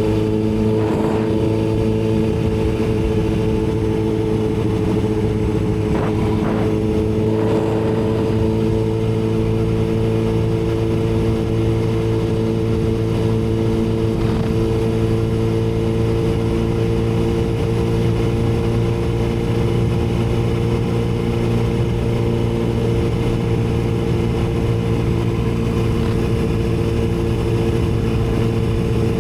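Yamaha R6 inline-four engine running at steady revs, its pitch creeping up slightly over the stretch, as the motorcycle cruises.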